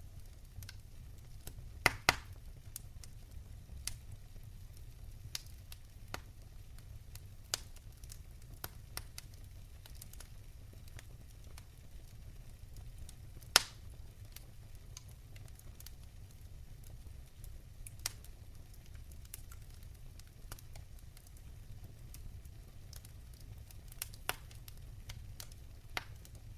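Wood fire in a fireplace crackling: a low steady rumble of flames with scattered sharp pops and snaps, a loud double crack about two seconds in and the loudest single pop about halfway through.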